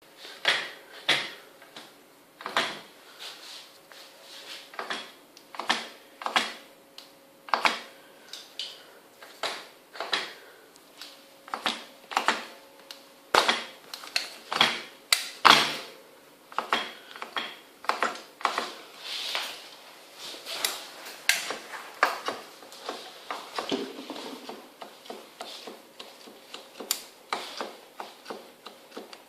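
Car shock absorber knocking: a long run of sharp, irregular knocks about once a second, some much louder than others. The knock comes from the shock absorber itself, which the owner takes to be faulty.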